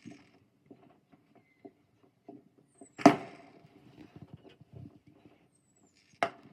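Firework explosions: two sharp bangs about three seconds apart, each ringing on briefly and each preceded by a short, high falling whistle. Faint small pops and crackles run between them.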